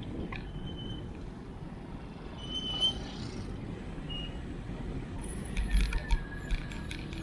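Steady low rumbling noise, like wind and road noise on the move. From about five seconds in comes a quick run of small metallic clicks and jingling.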